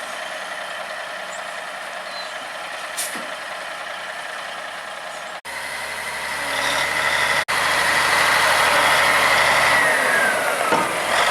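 A gravel dump truck running. Its engine noise gets much louder over the second half as the truck works.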